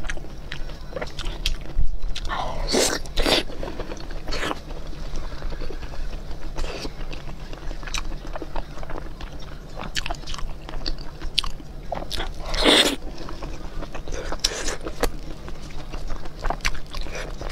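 Close-miked biting and chewing of soft, sticky glazed pork belly: wet mouth sounds in an irregular rhythm, with a couple of louder bites about three and thirteen seconds in.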